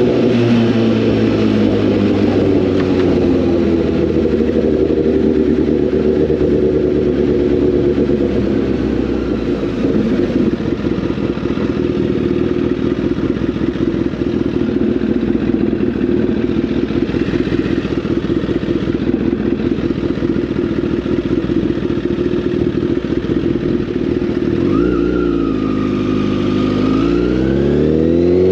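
Honda CBR1000RR's inline-four engine running under way at a steady cruising pitch. About 24 seconds in the revs dip, then climb sharply as the bike accelerates near the end.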